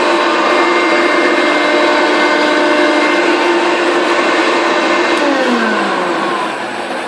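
Hoover Concept One upright vacuum cleaner running with a steady whine, then switched off about five seconds in, its motor winding down with falling pitch.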